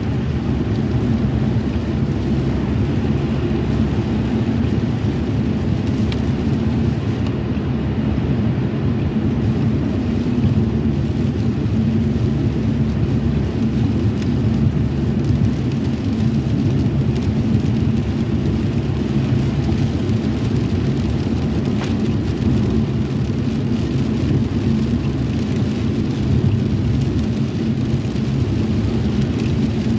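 Steady low road and engine noise of a car driving in the rain, with rain sounding on the vehicle throughout.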